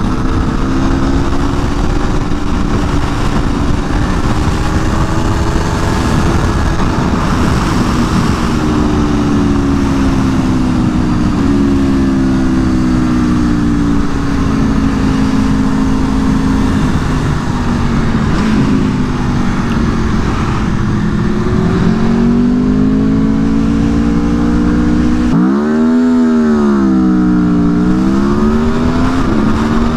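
2022 Aprilia Tuono V4 1100 Factory's V4 engine pulling hard around a track, its pitch stepping down at upshifts around 11 and 14 seconds in, sagging and then climbing. About 25 seconds in the revs leap sharply, dip and climb again. Heavy wind rush throughout.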